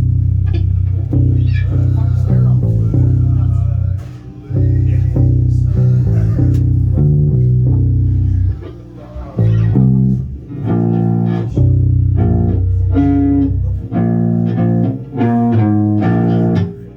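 Bass guitar played solo: sustained low notes under higher plucked notes and double stops, the phrases breaking off briefly about four, nine and fourteen seconds in.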